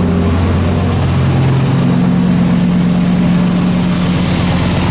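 Turbocharged 8.3-litre V10 of a 2004 Dodge Ram SRT-10 idling steadily, with a rattle from its fender-dump exhaust, where a hose clamp on the pipe knocks against the fender.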